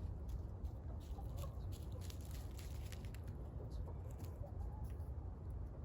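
Chickens clucking softly a few times over a steady low rumble, with scattered faint clicks.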